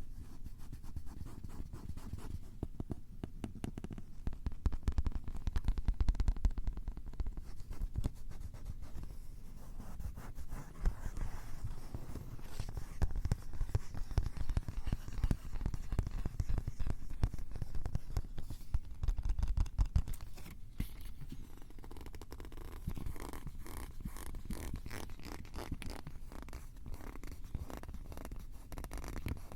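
Close handling noise of a Tascam recorder's built-in microphones being scratched and rubbed, heard as a dense crackle over a deep rumble that swells and eases in stretches.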